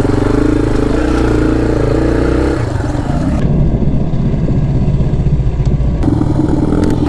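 Dirt bike engine running under throttle, its pitch shifting as the rider works the throttle. The engine sound changes abruptly about three and a half seconds in, then changes back about six seconds in.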